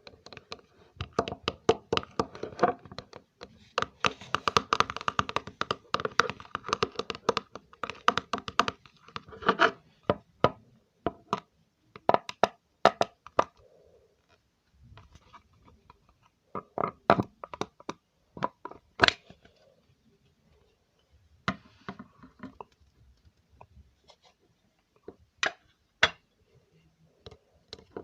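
Close-miked ASMR trigger sounds made by hand: a dense run of crackling and tapping for the first ten seconds or so, then scattered single sharp clicks and taps.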